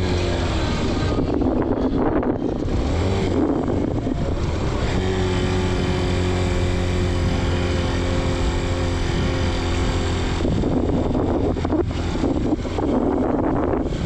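Motorcycle engine running steadily while riding, with wind rushing over the microphone about a second in and again near the end.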